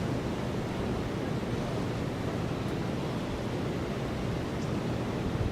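Steady wind rushing and buffeting the microphone, heaviest in the low end and with no distinct events.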